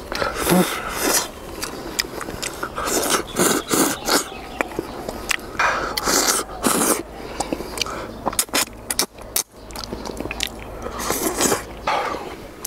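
A man biting and chewing skewered grilled cuttlefish close to a clip-on microphone: irregular bites, tearing and chewing.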